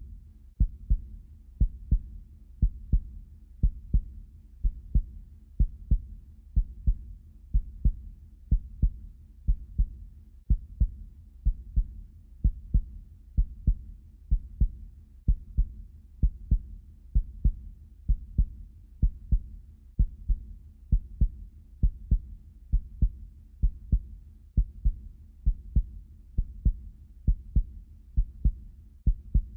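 Amplified human heartbeat: a steady, regular train of low thumps, roughly one and a half beats a second.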